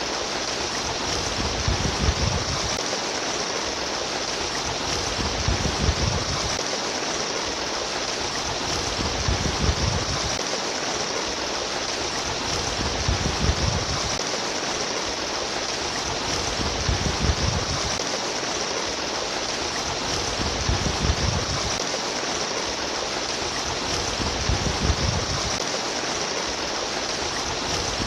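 Steady babbling and splashing of flowing water, like a small stream, with a low surge that comes back about every four seconds.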